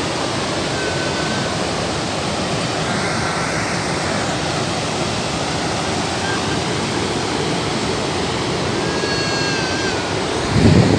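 Waterfall rushing, a steady dense roar of falling water. Near the end a brief low thud.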